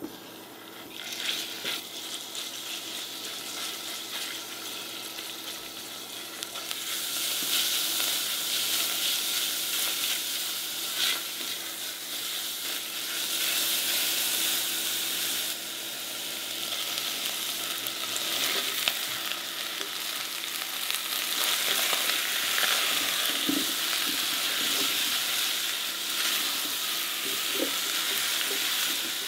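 Beef slices, and then chunks of potato, carrot and onion, sizzling as they fry in oil in a stainless steel saucepan, stirred with a spatula that scrapes the pan now and then. The sizzle starts about a second in, as the meat goes into the hot oil, and gets louder about seven seconds in.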